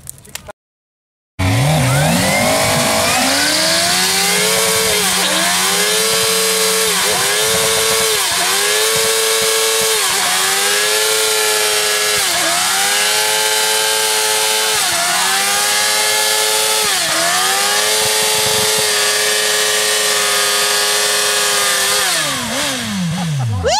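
Motorcycle engine revved hard and held high, its pitch sagging and climbing back about every two seconds, then dropping away near the end. It comes in abruptly after a moment of dead silence.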